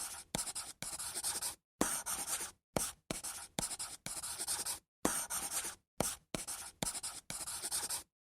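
Pen drawing on paper: short scratching strokes, each starting with a sharp tap as the tip meets the paper, with dead silence between them. The strokes stop near the end.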